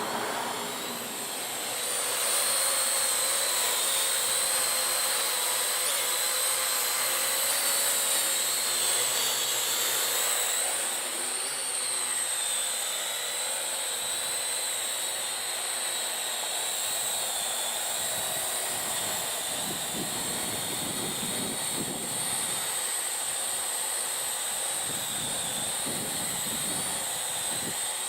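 Parrot AR.Drone 2.0 quadcopter's four electric motors and propellers whining in flight, a steady high whine that wavers slightly in pitch and grows louder about two seconds in. Some low rumbling comes and goes near the end.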